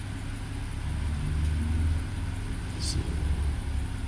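A 2010 BMW 328i's inline-six engine idling with a steady low rumble. The engine has a slight intermittent misfire on cylinder 6.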